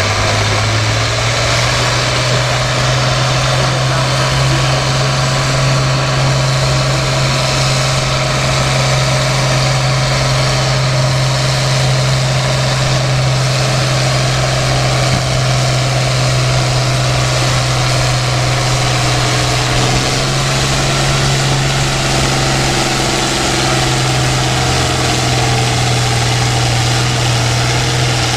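International Harvester 1066 tractor's diesel engine working hard at steady high revs as it pulls the weight-transfer sled, the note holding nearly constant with a slight shift about two-thirds of the way through.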